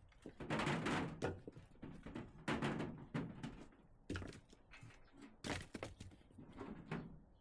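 Split firewood logs knocking and clattering against each other as they are handled and stacked, in several bursts, the loudest about a second in, again near three seconds and near six seconds.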